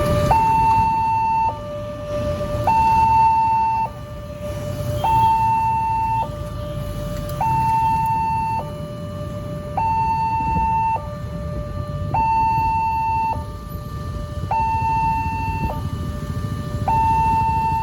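Electronic warning alarm of a railway level crossing, sounding a two-tone signal that switches between a higher and a lower pitch about every second, with a low rumble underneath.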